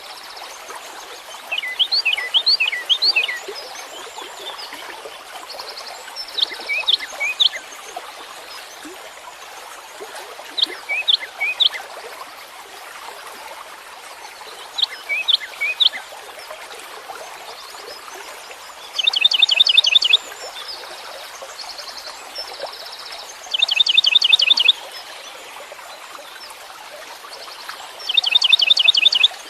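Songbird singing in short phrases of quick, high, falling notes every few seconds, with three longer rapid trills in the second half, over a steady background hiss.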